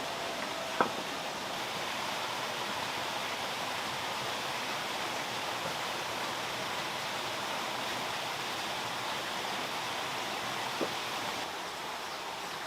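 Steady rushing hiss, with a sharp tap about a second in and a fainter one near the end.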